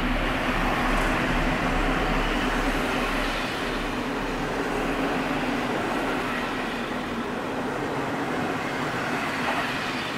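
EP07P electric locomotive passing close by, followed by its passenger coaches rolling past: a steady loud rumble of wheels on rail. The locomotive's low hum drops away after about three and a half seconds, leaving the coaches' running noise.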